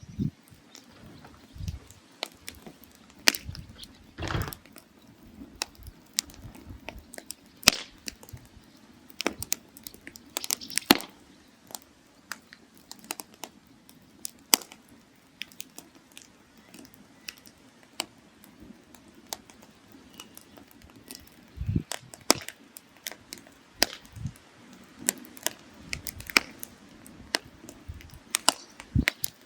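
Firewood burning in a mangal brazier, crackling with irregular sharp pops and snaps over a faint steady rush of flame, as the wood burns down to coals for grilling.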